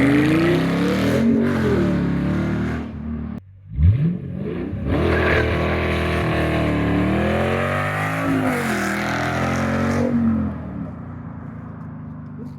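Dodge Challenger SRT8's 6.1 Hemi V8 under hard acceleration, climbing and dropping in pitch several times. It cuts out briefly about three and a half seconds in and settles to a quieter steady running near the end.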